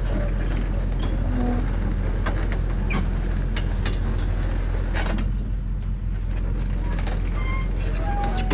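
Excavator's diesel engine running steadily, with scattered clicks and short squeaks over the drone.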